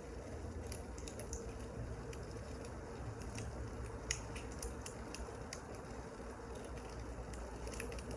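Wood fire crackling: a steady low rumble with scattered sharp pops and snaps, one louder pop about four seconds in.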